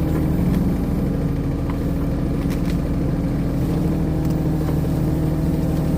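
Mini excavator engine running steadily under work, with a few light clicks scattered through.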